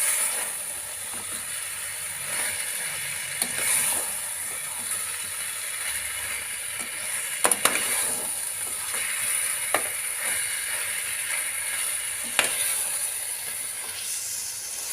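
Chicken and spice masala sizzling in a pan while it is stirred, with a few sharp clicks of the spoon against the pan.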